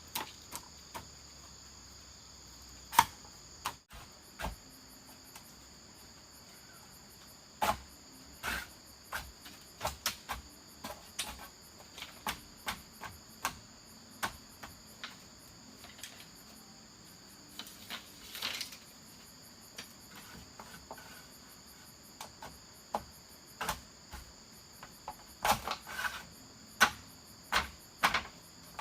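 A steady high-pitched insect chorus, with many sharp knocks and taps at irregular intervals. The loudest knock comes about three seconds in, and a cluster comes near the end.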